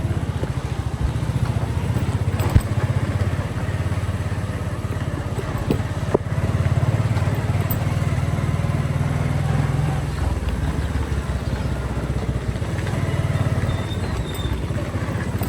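Motorcycle engine running while riding, a steady pulsing rumble that pulls harder for a few seconds in the middle, then eases off. Two sharp knocks in the first half.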